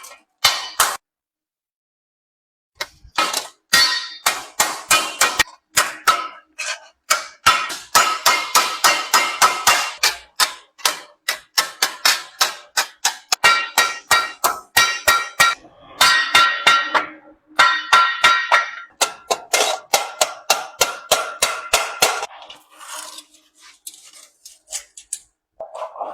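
Hammer striking thin galvanized sheet iron in quick runs of blows, about four a second, each with a short metallic ring, with a brief pause about a second in. The sheet's rim is being hammered over iron wire to bead the edge of a sheet-metal water ladle.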